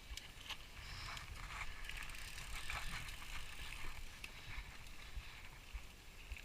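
Hikers' footsteps scraping and clicking on a rocky trail during a steep climb, with gear rustling, over a low rumble on the microphone. The patter of clicks and scrapes is busiest a second or two in.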